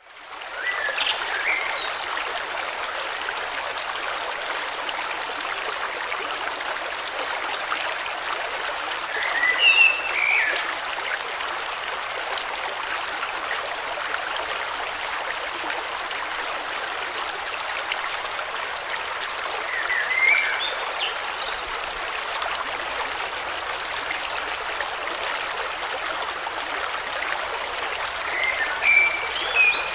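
River water flowing steadily, with short bursts of bird chirping about every ten seconds.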